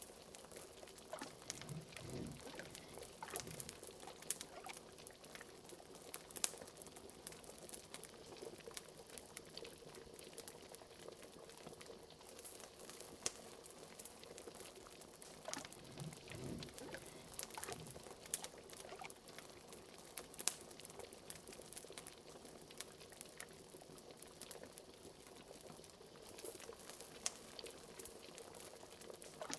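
A fire crackling with many small sharp pops, over liquid bubbling in a pot with a few soft low blubs.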